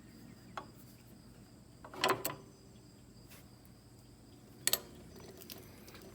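A few light knocks and clicks of snowblower drive parts being handled during disassembly, the loudest cluster about two seconds in and a sharp double click near the end, over a faint steady hum.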